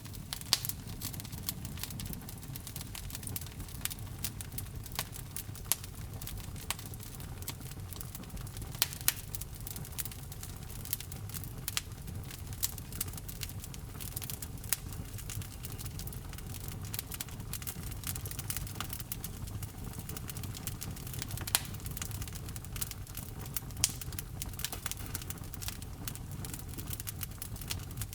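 Fire burning in a fireplace, crackling with frequent irregular sharp pops over a low, steady rumble.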